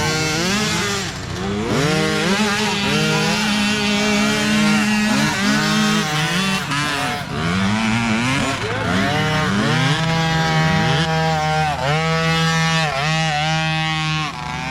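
Several small mini dirt bike engines revving at once, their pitch rising and falling over and over as the riders work the throttles, with a steadier engine note underneath.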